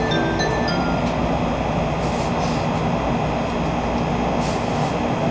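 Cabin noise of a Shinkansen Nozomi bullet train running at speed: a steady rumble of wheels and rushing air, with short hissing surges about two seconds in and again near the end.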